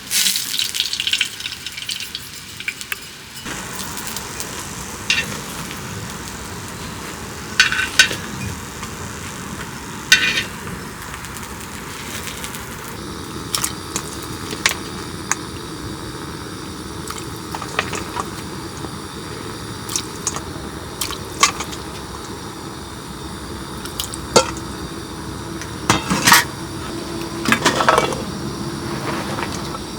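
Cooking in a pan: a steady sizzling hiss with metal utensils clinking and scraping against the cookware every few seconds.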